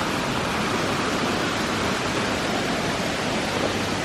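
Karamatura Falls, a waterfall in rainforest, pouring into a pool: a steady, even rush of falling water.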